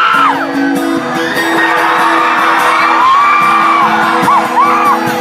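Live rock band playing a repeating electric guitar figure, with fans in the crowd whooping and shouting over it.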